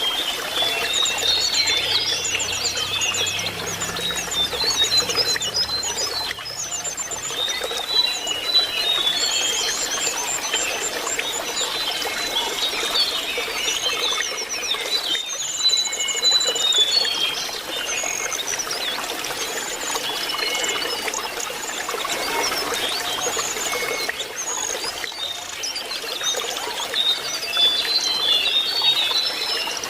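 Lesser shortwing song: rapid high twittering and short whistled phrases, repeated throughout, over a steady trickle of running water.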